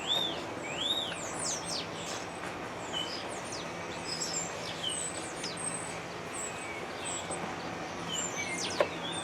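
Several wild birds chirping and calling repeatedly, with short arched and downward-sweeping notes, over a steady low hum. A single sharp click sounds near the end.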